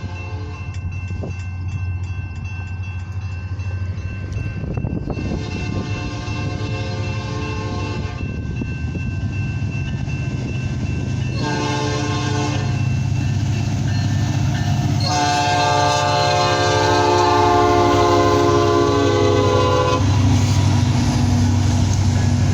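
Diesel freight locomotives, a CN SD70M-2 leading an SD60, approaching and sounding the air horn three times, the last blast the longest. Under it the deep rumble of the diesel engines grows steadily louder as the train nears.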